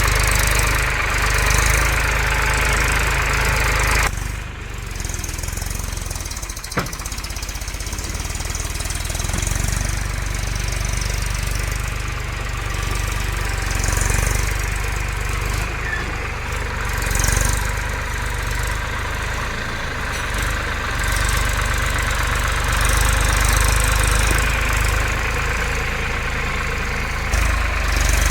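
Tractor diesel engine running steadily with a low throb. The sound changes abruptly about four seconds in, and there is one sharp click a few seconds later.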